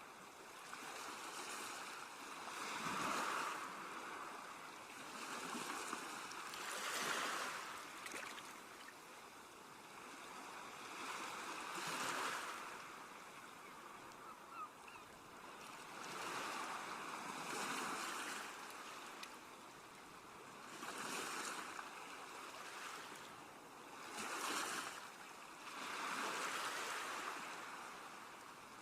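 Sea waves washing onto a shore, each wave swelling and fading every few seconds in a steady cycle.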